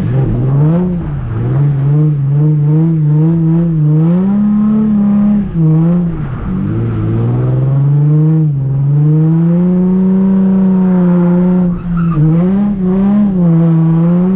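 Nissan 350Z's V6 engine revving hard while drifting, its pitch climbing and dropping repeatedly with quick throttle blips. It holds a high rev for several seconds in the middle and falls away sharply twice, around six and twelve seconds in.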